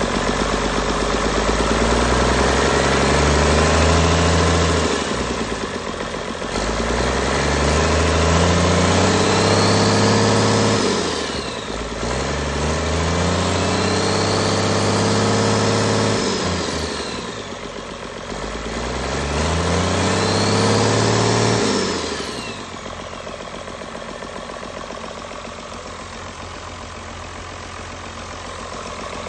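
Cummins 6BT turbocharged inline-six diesel revved up and let fall back four times, with the turbo whistle rising and falling with each rev. It then settles to a steady idle.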